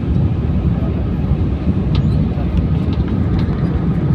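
Steady low roar of an airliner cabin: engine and airflow noise, with a couple of faint small ticks near the middle.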